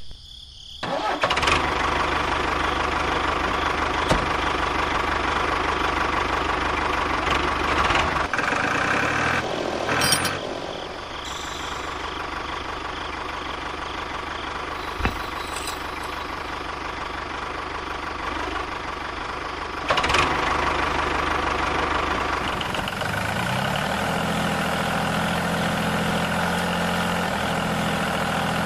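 A tractor-style engine running steadily. Its tone shifts several times and settles into an even idle in the last few seconds.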